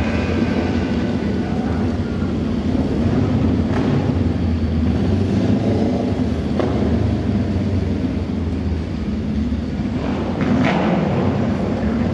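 Auto-race motorcycle engines running as a steady rumble, with a few short sharp cracks about 4, 6.5 and 10.5 seconds in.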